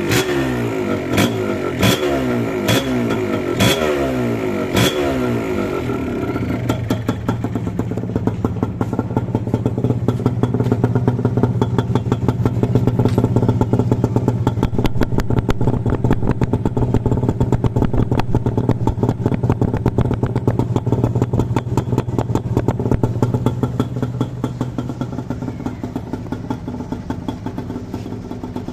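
Yamaha DT175 single-cylinder two-stroke engine on its original exhaust, blipped repeatedly with quick rises and falls in revs and a few sharp cracks for the first few seconds. It then settles into steady, even running.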